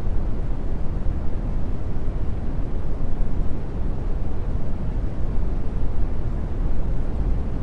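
Continuous brown noise: a steady, deep hiss whose strength lies mostly in the low end and thins toward the top, with no changes or breaks.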